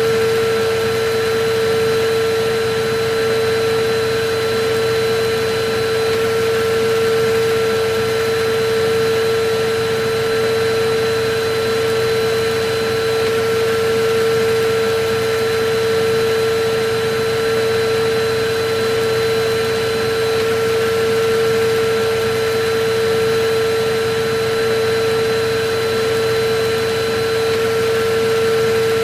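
Electric vacuum cleaner running steadily: a constant mid-pitched motor hum over an even rushing hiss of air, with no change in speed.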